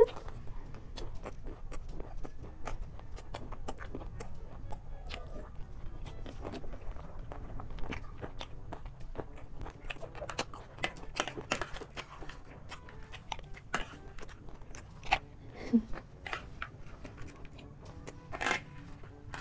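Close-miked crunching and chewing of crisp chatpatey (spicy puffed-rice mix) and panipuri shells: a dense, irregular run of small sharp crunches.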